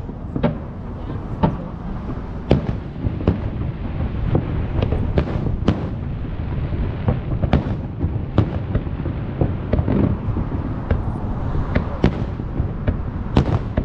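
Aerial fireworks shells bursting in quick, irregular succession, sharp bangs over a continuous low rumble of explosions.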